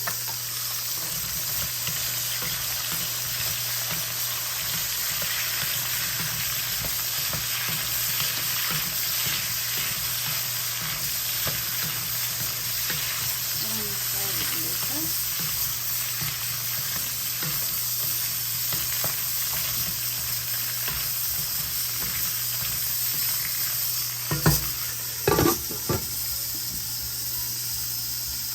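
Potatoes frying slowly in oil and butter in a covered pan, a steady sizzle with fine crackling over a low hum. About three-quarters of the way through, two or three sharp knocks stand out.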